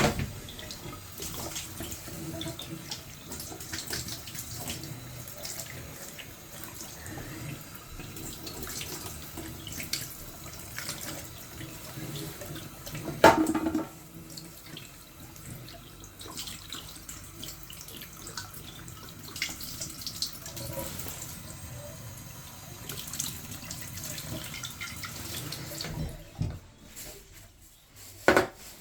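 Water running and trickling, with small clicks and a sharp knock about thirteen seconds in and another near the end. It is likely backed-up condensate being drained out of the boiler.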